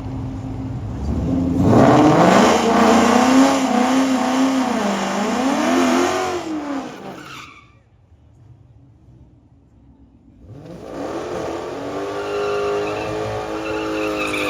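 A drag car's engine revving hard: the pitch climbs, then holds high with wavering revs for several seconds before cutting off abruptly about seven seconds in. A few seconds later the engine revs up again and stays high to the end.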